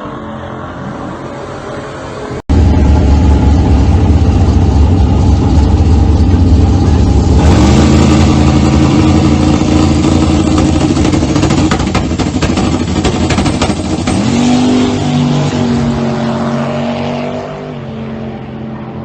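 Turbocharged LS V8 in a Dodge Dakota running under hard throttle. It is moderate at first, then suddenly much louder about two and a half seconds in. The pitch climbs and then holds twice, and it eases off near the end.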